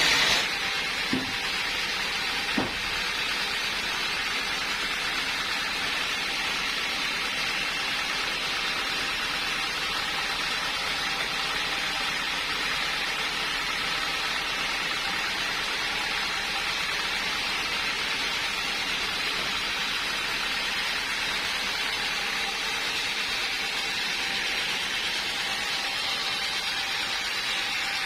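Sawmill machinery running with a steady hiss, not cutting, with two light knocks in the first few seconds.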